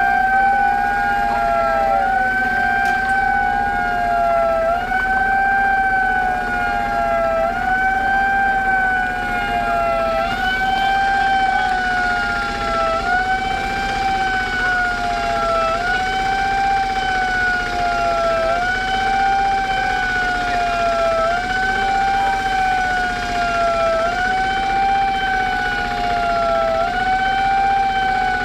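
Emergency vehicle siren wailing continuously, its pitch sweeping up and down in a steady cycle about every second and a half to two seconds.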